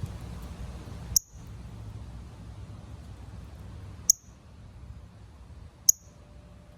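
Northern cardinal giving three sharp, high, metallic chip calls, a couple of seconds apart, over a low background rumble.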